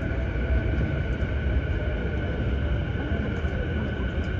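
Station platform ambience beside a stopped electric commuter train with its doors open: a steady low rumble and hum, with a couple of faint, steady high tones over it.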